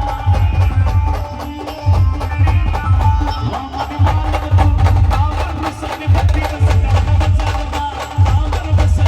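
Marathi band playing an up-tempo dance tune: a steady melody over dense drumming, with a heavy bass-drum pattern coming back about every two seconds.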